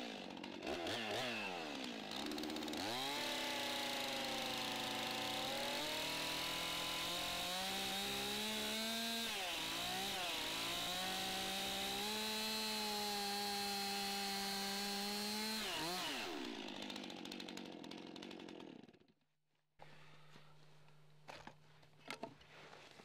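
Chainsaw cutting into a timber log, the engine's pitch dipping and recovering as it loads in the cut, then winding down and stopping about nineteen seconds in. A few light knocks follow near the end.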